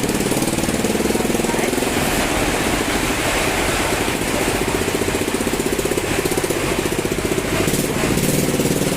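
Heavy tropical rain pouring down, with a low, rapidly pulsing drone of a motor running steadily underneath.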